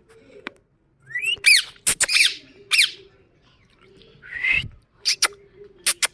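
Indian ringneck parakeet squawking: a run of short calls that glide in pitch in the first half, a harsher call about four seconds in, then a few sharp clicks near the end.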